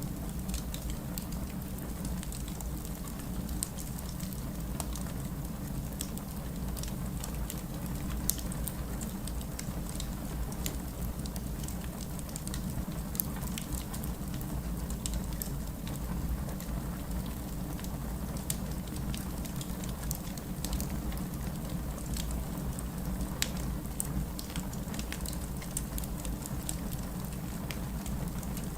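Steady rain with a low, even rumble beneath it, and scattered sharp crackles and pops of a wood fire in a fireplace.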